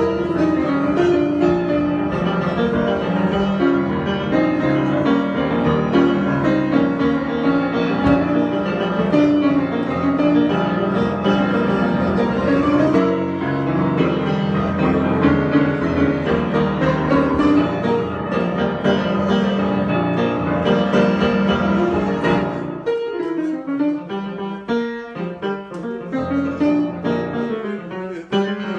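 Improvised piano music, dense chords and runs that thin out into sparser, quieter notes about three-quarters of the way through.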